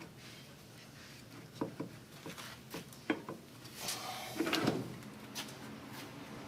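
Hand tools and parts being handled during repair work: a run of light clinks and knocks, then a longer scrape or rattle about four seconds in, then two more clicks.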